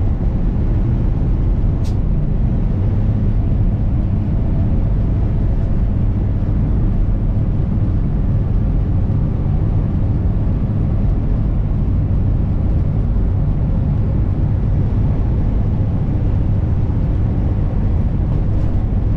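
Kenworth W900 semi-truck on the move: a steady low drone of the diesel engine with road and wind noise. A faint click about two seconds in.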